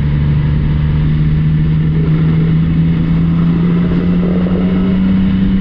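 Motorcycle engine under way, heard from inside a closed helmet over steady wind and road rush, its tone rising slowly as the bike gently gains speed.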